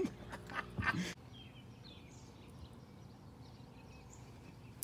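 Faint outdoor pond ambience with distant birds chirping now and then, after a brief bit of voice in the first second.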